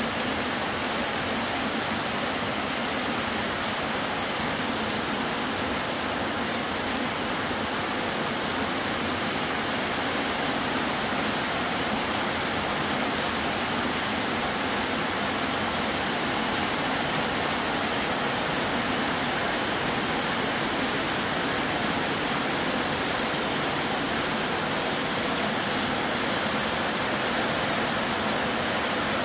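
Heavy rain falling in a steady downpour, a dense even hiss, with water streaming off the edge of a corrugated metal patio roof.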